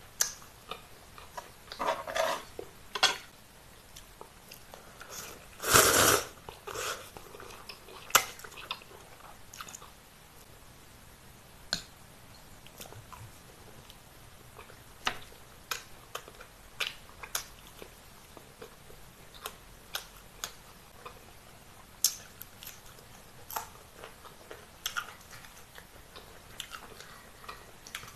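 A person eating with chopsticks: chewing and biting, heard as scattered sharp clicks and smacks, with a louder burst about six seconds in.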